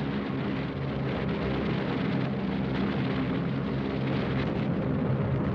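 Propeller aircraft engines droning steadily, a low even hum with a rushing noise over it.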